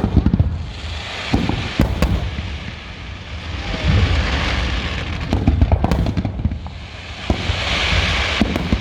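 Fireworks display: aerial shells bursting in quick succession, each bang followed by rumbling echoes, with spells of crackling effects swelling around the middle and near the end.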